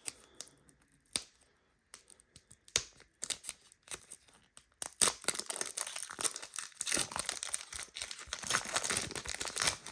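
A trading-card pack wrapper being torn open and crinkled by hand: scattered rustles and clicks at first, then continuous crinkling from about halfway through.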